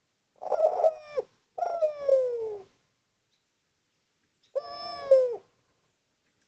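Spotted dove (derkuku/tekukur) cooing: three coo phrases, each gliding down in pitch. The first two come close together, and the third follows after a pause of about two seconds. It is a loud, clear call of a male answering or challenging other doves.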